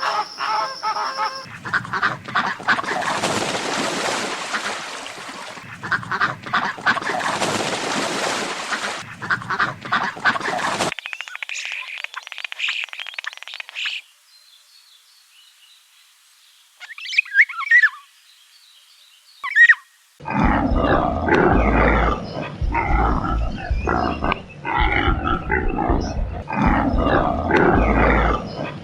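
Animal and bird calls in separate stretches: loud, rough calls for the first ten seconds or so, a quiet gap broken by two short chirps, then dense repeated calls through the last eight seconds.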